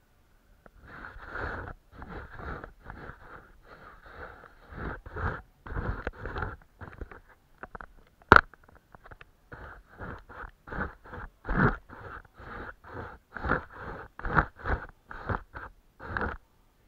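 Paintbrush brushing on paper in a run of short scratchy strokes, longer at first, then shorter ones about two or three a second, with one sharp click about eight seconds in.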